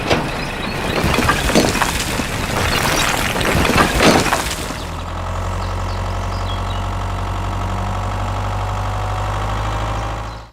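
A rapid clatter of crashing, breaking impacts for about four and a half seconds, then an engine idling with a steady low hum that cuts off suddenly at the end.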